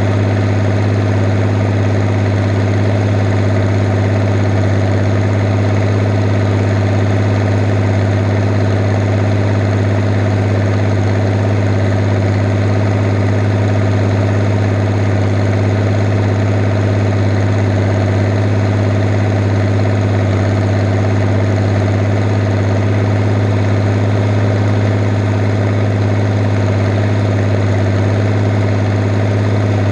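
Fiat 110-90 tractor's diesel engine running steadily at an even speed, a constant deep engine drone with no change in revs.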